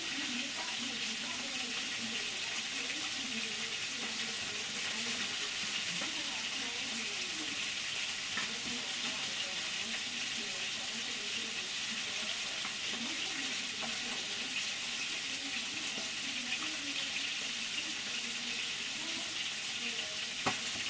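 Chopped onions frying, a steady sizzle, with a single sharp click near the end.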